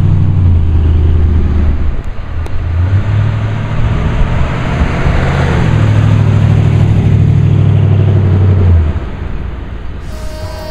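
Small-block Chevy V8 of a 1951 Mercury pulling away and driving past, the engine loud and steady with a brief dip about two seconds in, then fading as the car drives off down the street.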